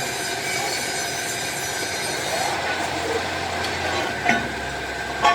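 Metalworking machine running with a steady, multi-toned whine, with a few short sliding squeaks over it.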